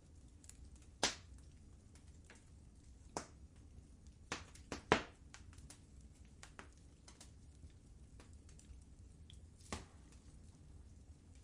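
Wood fire crackling in a fireplace: scattered faint ticks with sharp pops about a second in, a quick cluster of three around four to five seconds in, and another near the end, over a faint low steady rumble.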